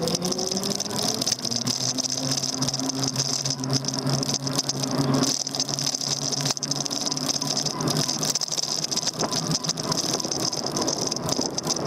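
Daymak Max e-bike riding along a street, its handlebar-mounted camera and body rattling over the road surface. A low hum rises briefly in pitch at the start, holds steady, and fades about eight seconds in.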